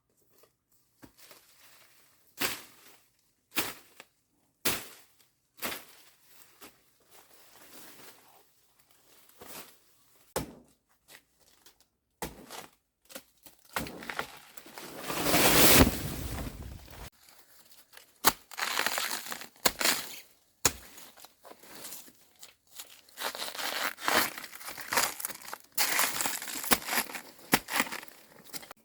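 Crunching and rustling of dry vegetation: single crunches about once a second at first, a loud rustling swell about halfway through, then dense, busy rustling.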